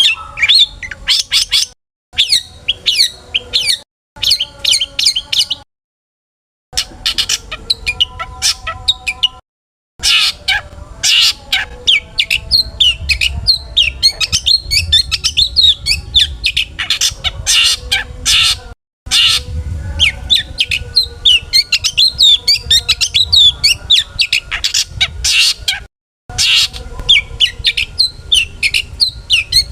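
Long-tailed shrike (cendet) singing a fast, varied song of sharp chirps and rapid twittering phrases packed with mimicked calls. It comes in loud spells that cut off abruptly into silence several times.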